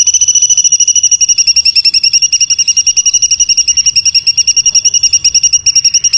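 A songbird's fast, even trill of rapid-fire notes, about a dozen a second at a steady high pitch: a dense 'tembakan' burst of masteran song.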